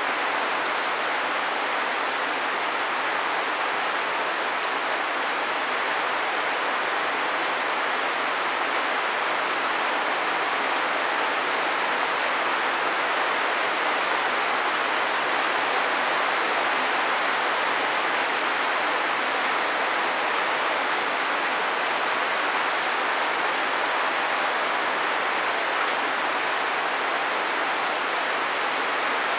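Steady rain falling, an even hiss that holds level without a break.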